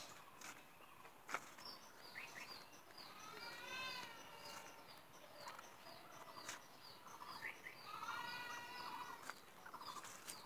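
Faint birdsong: a small bird repeats a short high chirp about three times a second, with two longer warbling calls partway through and near the end. A few sharp clicks are heard early on and near the end.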